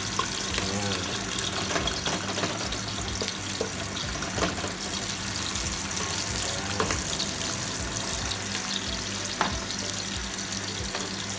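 Sliced onions and garlic sizzling in hot oil in a pot as they sauté toward golden brown, stirred with a wooden spoon that knocks against the pot a few times.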